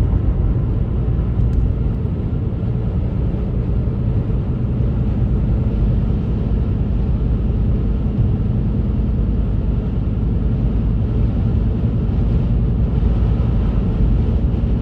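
A vehicle engine running steadily with a loud, deep, even rumble.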